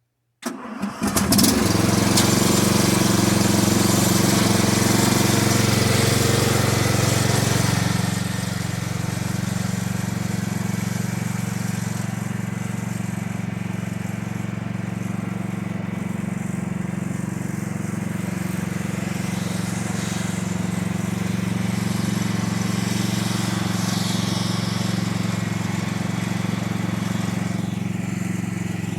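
An engine running steadily at a constant speed. It cuts in abruptly at the start and drops slightly in level about eight seconds in.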